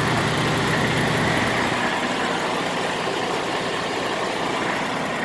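Freightliner Cascadia semi truck's Detroit diesel engine idling steadily, a little fuller in the low end for the first couple of seconds.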